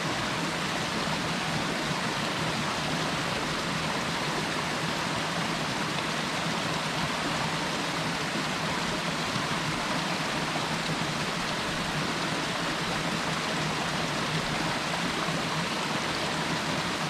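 A small mountain stream running, a steady rush of water with no change throughout.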